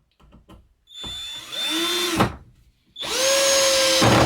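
Mailtank cordless drill run in two bursts of about a second each, the motor whining up to speed. The torque clutch is set low, so it slips and the ratchet kicks in. A few light clicks come first.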